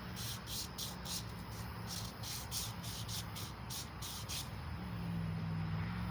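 Emery cloth pulled back and forth across a small-block Chevy 350 crankshaft journal, a quick rhythmic scratching at about three strokes a second that stops after about four seconds. A steady low hum runs underneath and grows louder near the end.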